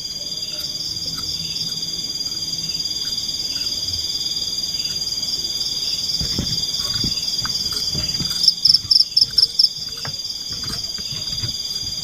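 Forest insects calling: a steady high-pitched drone, with a loud run of about six rapid chirps about eight and a half seconds in. A few soft low knocks sound partway through.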